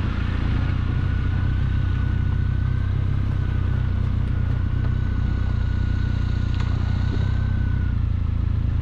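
Triumph motorcycle engine running steadily while riding at an even speed, a low even drone with a thin steady whine above it.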